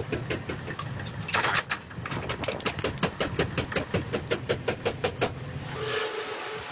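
Metalworking machine running with a fast, even clacking of about five strikes a second over a steady motor hum; near the end the clacking and hum stop and a steady higher-pitched whine with hiss takes over.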